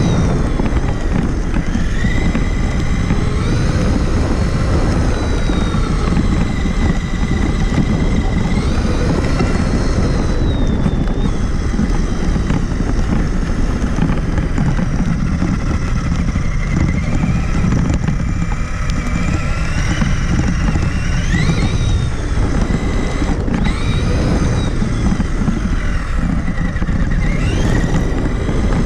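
Onboard sound of a Traxxas Summit RC truck driving: the electric motor and gearbox whine, rising and falling in pitch again and again as the throttle is worked, over a constant heavy rumble of the chassis and tyres jolting over the ground.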